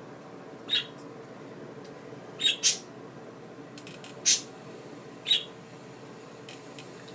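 Pet budgerigars giving short, sharp squawking chirps, five calls in about five seconds, two of them in quick succession near the middle, over a steady low hum.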